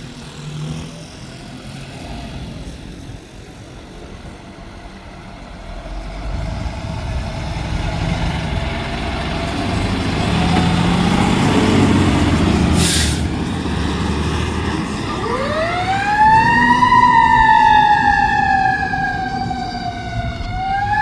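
A 2024 Seagrave Marauder fire engine's diesel engine running and growing louder as it pulls out, with a short hiss of air brakes about 13 seconds in. A siren then winds up, peaks, falls slowly and starts rising again near the end.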